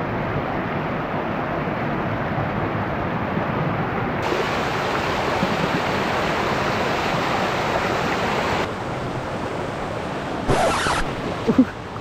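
Rushing water of a waterfall stream, a steady loud hiss that eases slightly about two-thirds of the way in. Near the end there is a brief louder burst of noise, with a second smaller one just after.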